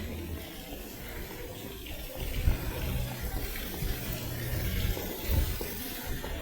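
Water running from a tap into a sink, with a couple of low bumps about two and a half and five and a half seconds in.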